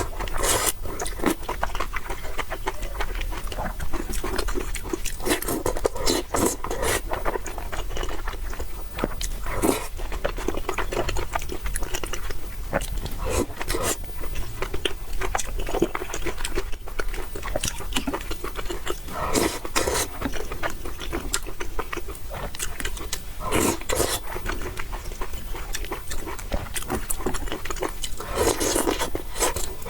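Close-miked eating: wet chewing and mouth clicks throughout, with several louder slurps of noodles.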